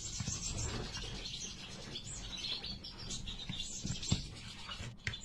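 Small cage birds chirping and twittering continuously, with a few faint soft knocks.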